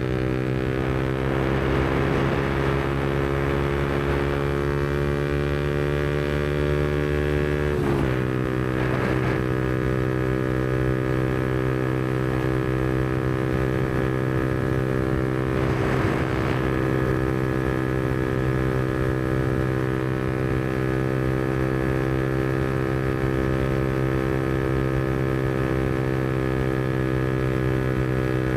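Yamaha MT-125's single-cylinder four-stroke engine running steadily at cruising revs through a Black Widow aftermarket exhaust. Its pitch creeps up slowly, dips sharply about eight seconds in, then holds steady.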